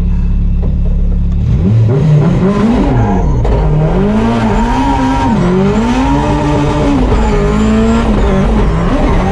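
Drift car's engine running steadily and low, then from about one and a half seconds in revving up and down over and over, its pitch rising and falling about once a second as the throttle is worked through a drift.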